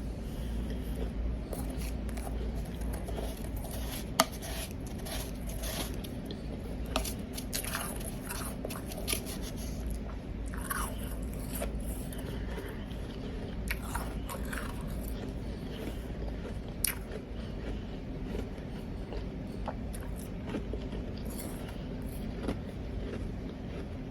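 Powdery ice being bitten and chewed close to the microphone: irregular crunches and scrapes, with one sharp crack about four seconds in, over a constant low hum.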